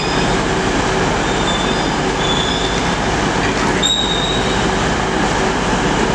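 Train moving along the track, a steady loud rumble and rush of wheels on rail with short high-pitched wheel squeals, the clearest about four seconds in.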